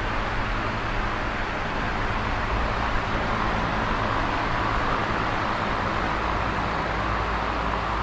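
Electric fan running steadily: an even rushing of air, with a low steady hum from the motor underneath.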